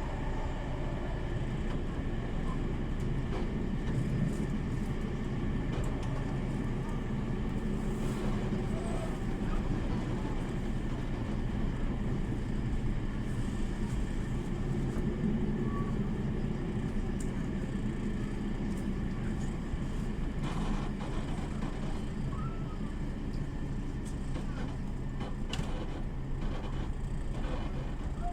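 A train running, heard as a steady engine drone and rumble that holds even throughout.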